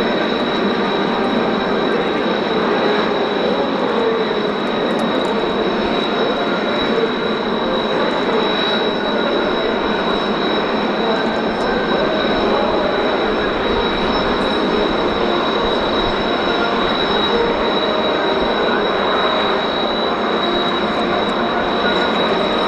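Jet aircraft engine running steadily with a constant high whine over a broad roar. The pitch does not rise or fall.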